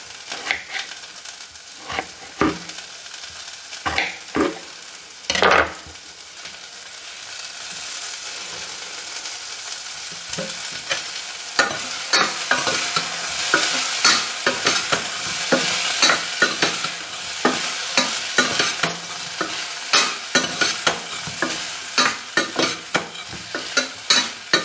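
Potatoes frying in hot oil in a steel pot, sizzling and being stirred with a spoon. The sizzle builds from about eight seconds in, with many short scrapes of the stirring, after a few sharp knocks in the first six seconds.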